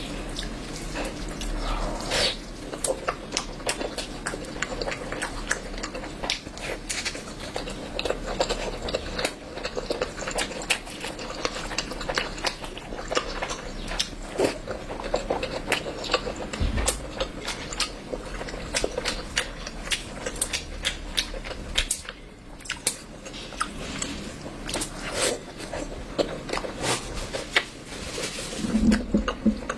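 A person eating curry close to the microphone: chewing with many short, wet clicks and smacks of the mouth, and now and then a clink of dishes.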